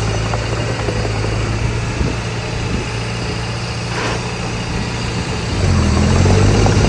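Diesel engine of heavy earthmoving machinery running steadily, then working harder and louder from about five and a half seconds in.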